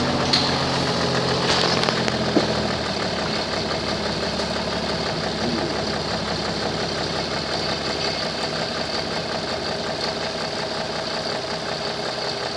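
2002 Chevrolet Trailblazer engine idling, with an exhaust leak. Its note shifts in the first two or three seconds, with a few light clicks, then holds steady.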